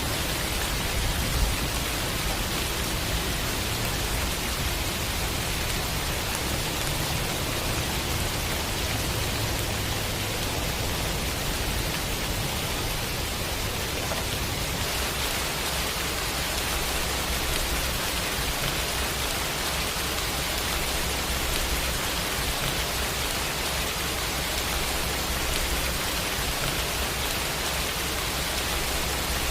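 Steady rain mixed with white noise: a dense, even hiss with a steady low rumble underneath. The tone shifts slightly about halfway through.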